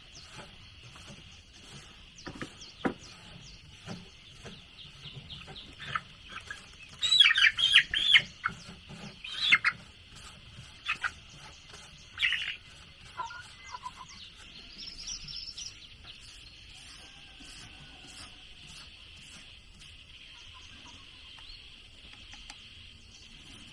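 Birds chirping in a short cluster of loud calls in the middle, over a steady high insect drone, with faint scattered taps.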